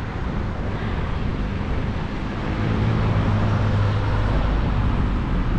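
Road traffic: a vehicle's engine hum passes, loudest in the middle, over a steady rush of traffic noise.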